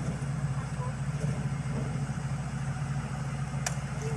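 Excavator's diesel engine running steadily at an even low pitch, with one sharp click near the end.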